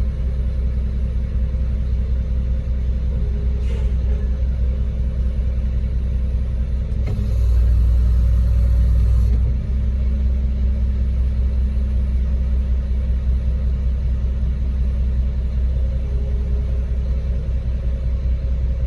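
Concrete mixer truck's diesel engine running steadily, with a louder stretch from about seven to nine and a half seconds in.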